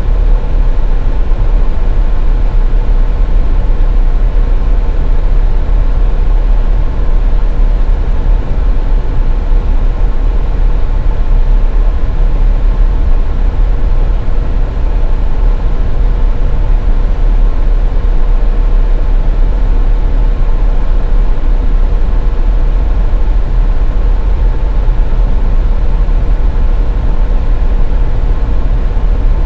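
Steady, loud low rumble of a car driving on the highway, road and engine noise as heard from inside, with a faint steady hum above it.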